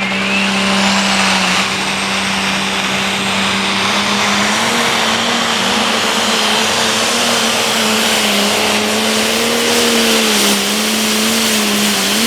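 Turbocharged diesel limited pro stock pulling tractor running hard under load on a pull, with a high turbo whine rising at the start and then holding. The engine note holds steady at first, then climbs a little about four seconds in and wavers as the driver eases off the held-back throttle and lets into the power.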